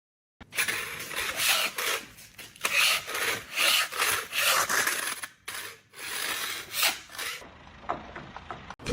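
Repeated rasping, scraping strokes, about two a second, stopping about seven seconds in.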